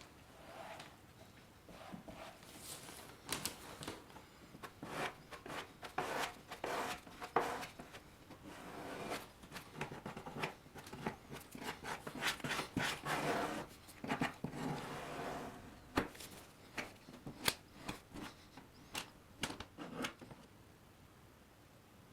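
Irregular small clicks, knocks and rubbing, like parts and tools being handled on a workbench, with a few sharper single clicks in the later half.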